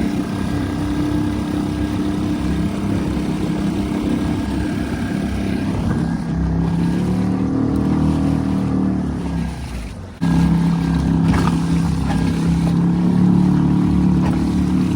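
Suzuki 2.5 hp single-cylinder four-stroke outboard motor running steadily, pushing a kayak. Its pitch sags and the sound fades for a moment about ten seconds in, then comes back suddenly at a steady pitch.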